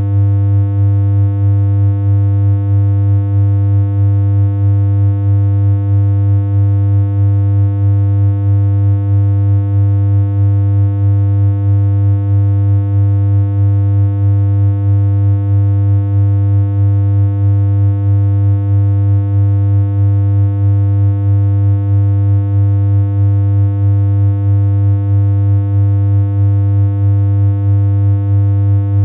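Steady computer-generated synthesizer hum: one low, unchanging tone with a buzzy stack of higher overtones, holding the same pitch and level throughout.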